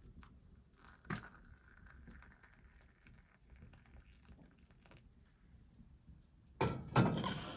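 Objects being handled: a sharp knock about a second in, scattered light clicks and clinks, then a louder clatter near the end.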